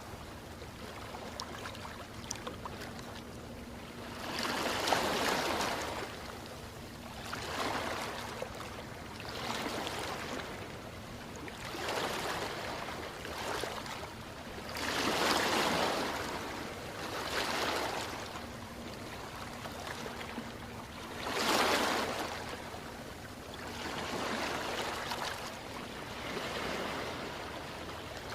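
Ocean waves breaking and washing on a shore, swelling and falling every two to three seconds, with bigger surges about five, fifteen and twenty-one seconds in.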